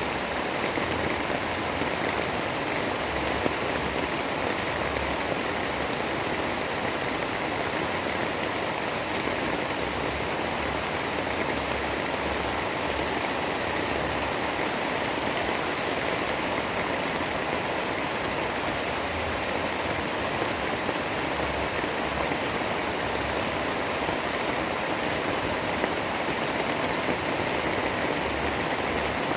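Steady rain, an even unbroken hiss with no thunder or swells.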